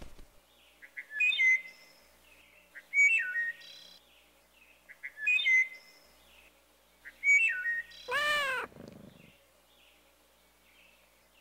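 A small bird chirping in short twittering phrases, four times about two seconds apart, then a cat meows once, loud and drawn out, about eight seconds in. Faint chirps carry on afterwards.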